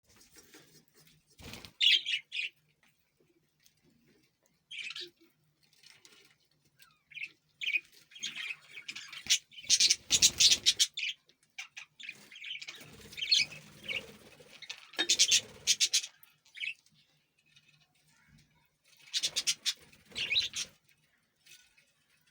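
Pet parrot squawking and chirping in short bursts, several times over, loudest about halfway through, with quiet gaps between the calls.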